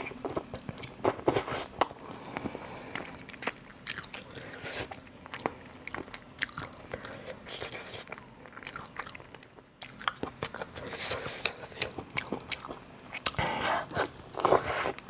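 Close-up eating: biting and chewing with many irregular crisp crunches and clicks, busier and louder near the end.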